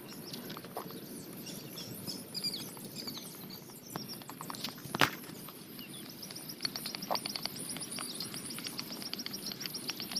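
Outdoor ambience with small birds chirping, then a fast, even trill of high chirps through the second half. There is a single sharp click about five seconds in.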